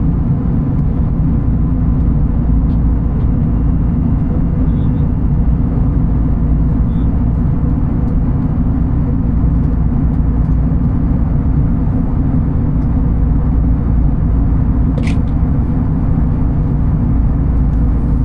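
Steady, loud low rumble of a vehicle in motion, with a few faint clicks and one brief sharp click about 15 seconds in.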